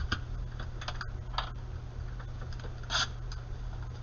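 Hands handling a box and packs of trading cards: scattered light clicks and taps, with a short rustle about three seconds in.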